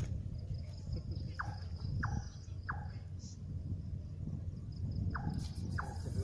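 Night ambience with insects droning in a steady high tone. Against it, a night animal gives short calls that fall sharply in pitch: three about a second in and two more near the end, each group about two-thirds of a second apart.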